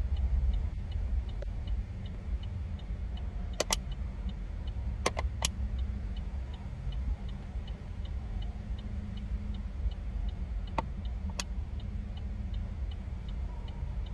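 Steady low road and engine rumble inside a moving car, with a turn-signal indicator ticking evenly at about two to three ticks a second, and a few sharp clicks.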